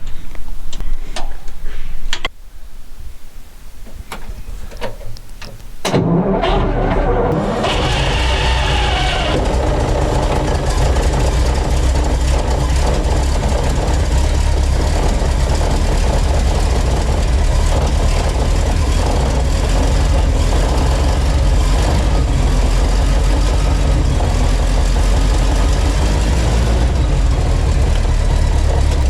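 Alvis Saladin armoured car's Rolls-Royce B80 straight-eight petrol engine being started cold after standing all winter: a few seconds of starting noise, then it catches about six seconds in, revs briefly and settles into a steady idle.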